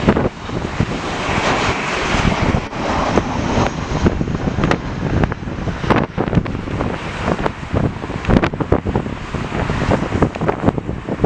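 Jet airliner engine noise from a passing plane, strongest in the first few seconds and then fading. Gusty wind buffets the microphone throughout.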